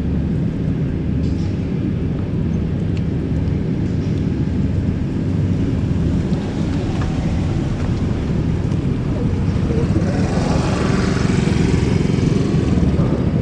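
A boat engine running as a steady low rumble. A rushing noise swells over it about ten seconds in and eases off near the end.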